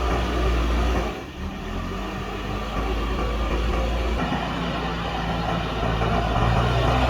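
Diesel engine of a JCB backhoe loader running steadily while it digs and loads soil into a truck. It dips briefly about a second in and gets louder again near the end.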